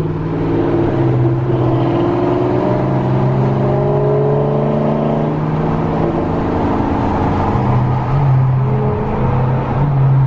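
Dodge HEMI V8 exhausts running in slow traffic. A steady low note, with the engine pitch rising and easing off a few times.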